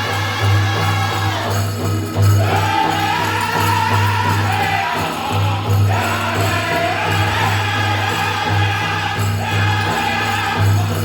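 Powwow drum group singing in high voices over a steady, even beat on a large bass drum, the phrases breaking off and starting again every few seconds. Dancers' bells jingle along with the beat.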